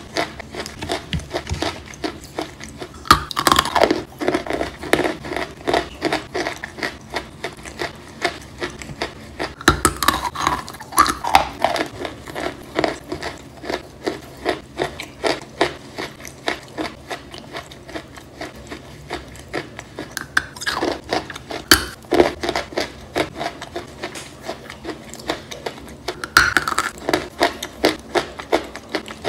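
A mouthful of wet, soaked chalk being chewed: steady crunching, about two to three crunches a second, with a few louder crunches spread through.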